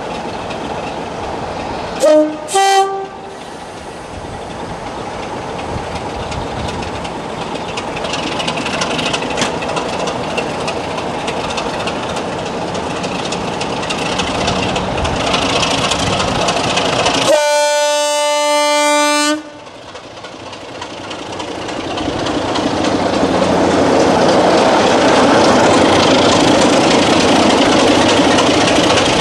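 Diesel locomotive sounding its two-tone horn, two short blasts on different notes, while approaching. Its engine and wheels grow louder, it gives one long horn blast of about two seconds, and then it runs past loudly.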